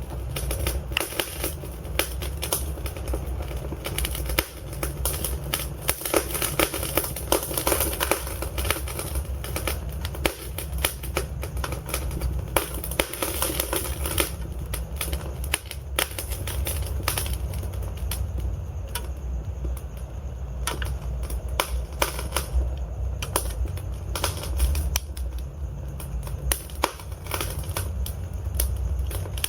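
Wood fire burning in a fireplace: a dense run of irregular sharp crackles and pops over a steady low rumble of the flames.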